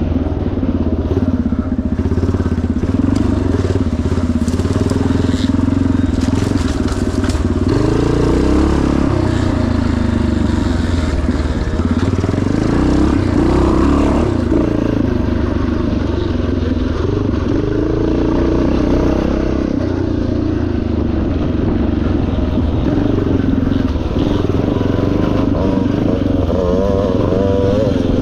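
1977 Yamaha TT500's single-cylinder four-stroke engine running hard, its revs rising and falling every second or two as the bike is ridden through the race course.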